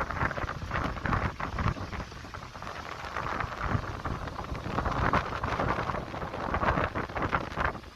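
Storm wind and heavy rain, gusting in irregular swells, with the wind rumbling on the microphone.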